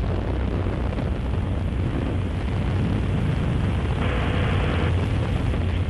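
Steady low rumble with a hiss over it on the rocket launch broadcast feed, with a brief brighter hiss about four seconds in.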